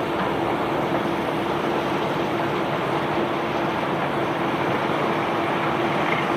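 Rock-carrying conveyor belt running steadily: an even rushing rumble with a constant hum through it.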